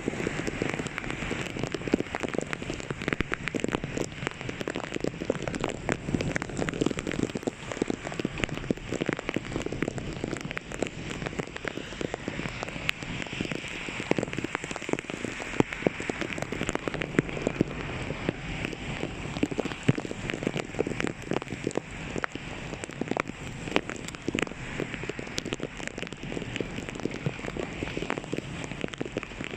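Heavy rain falling, a steady dense patter of many sharp drops.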